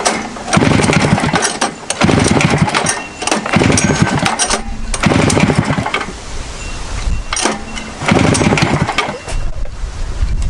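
Rupp 440 two-stroke twin snowmobile engine being pulled over by hand about six times, with its spark plugs out and a compression gauge in one cylinder, for a compression test. Each pull gives a second or so of fast chuffing and clatter.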